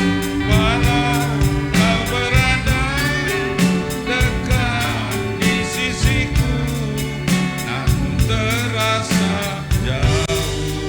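Instrumental band music: regular drum strokes and a steady bass under a wavering, ornamented lead melody.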